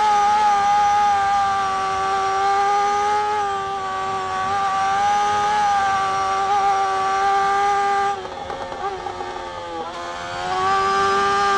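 Racing motorcycle's engine held at high revs at flat-out speed, a steady high-pitched note. About eight seconds in the note drops back and wavers for about two seconds, then picks up again.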